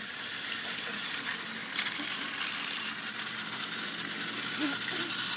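Battery-powered toy train running on its track: a steady whirring hiss, with two short bursts of rapid clicking about two seconds in.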